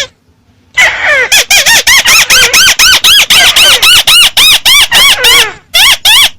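Volume-boosted recording of the bird known in Vietnamese as 'mắt xéo': a loud, fast series of short squealing calls, each rising and falling in pitch, about three a second. It starts just under a second in and pauses briefly near the end.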